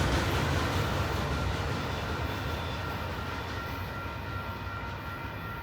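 Intermodal freight train rolling by on the rails, a low rumble of wheels and cars fading steadily, with faint steady high ringing tones above it.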